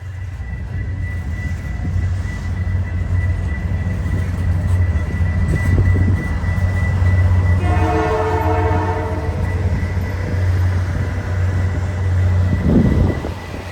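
CP Holiday Train's diesel locomotive rumbling past, sounding its horn in one chord lasting about two seconds, just past the middle.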